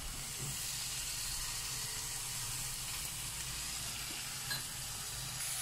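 Ground beef and diced onion sizzling steadily as they fry in a pan, with a small knock about four and a half seconds in.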